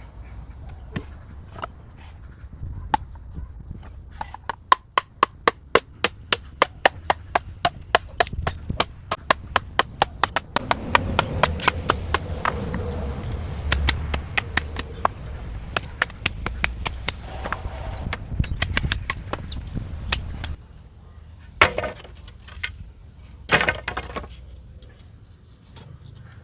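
Wood being chopped with a blade in a fast, steady series of sharp strikes, about three a second, followed by two louder single blows near the end.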